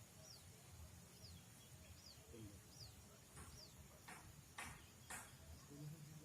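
Faint bird chirps: a short falling note repeated about once a second. About four seconds in come three quick, short rustling noises.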